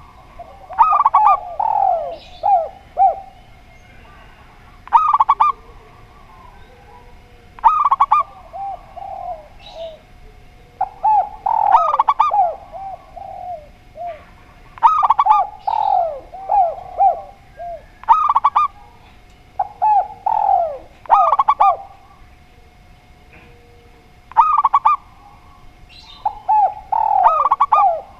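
Spotted dove and zebra dove cooing in repeated phrases, about one every three seconds.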